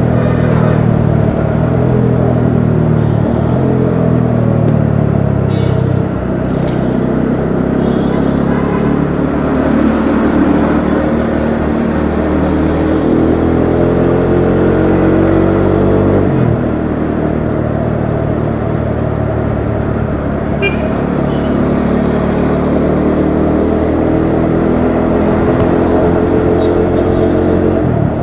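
Bajaj Dominar 400's single-cylinder engine running under way, the revs easing off at first, then climbing steadily, dropping suddenly about sixteen seconds in, and climbing again.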